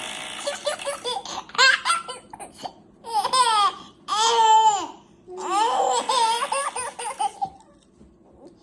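Baby laughing in several bursts of high-pitched squealing giggles, with short breaths between them.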